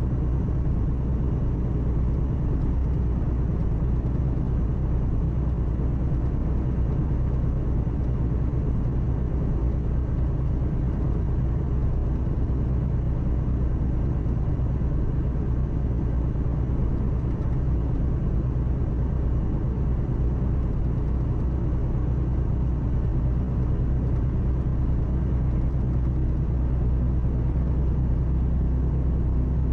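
Truck engine and road noise heard inside the cab at steady cruising: a constant low drone with tyre rumble and no changes.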